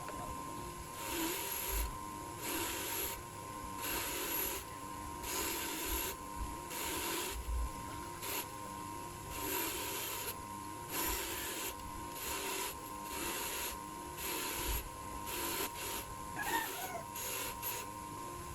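Hand-worked rasping strokes, back and forth, about three every two seconds, as of a part being filed, sanded or brushed by hand, over a faint steady tone.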